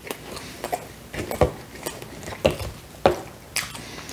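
Close-miked chewing of Hawaiian pizza: wet mouth smacks and soft crunches of crust, roughly two a second at an uneven pace.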